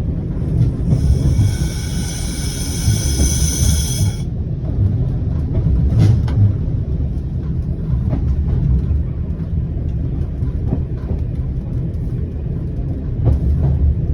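Single-car diesel railcar running downhill, heard from the cab: a steady low rumble of engine and wheels on track. A high ringing tone with several pitches sounds for about three seconds near the start, and there is a sharp knock about six seconds in.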